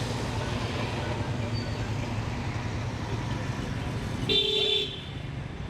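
A vehicle horn honks once, briefly, about four seconds in, over a steady low outdoor rumble of traffic.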